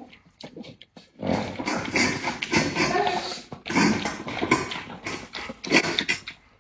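A pet dog making close, irregular noises near the microphone, starting about a second in and running in uneven spurts.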